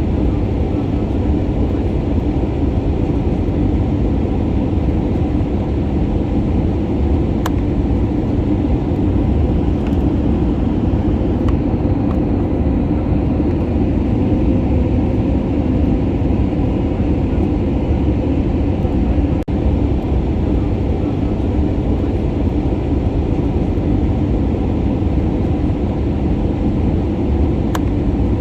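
Steady cabin drone of an Airbus A320neo in flight: the engines and the airflow around the fuselage, heavy in the low range and unchanging.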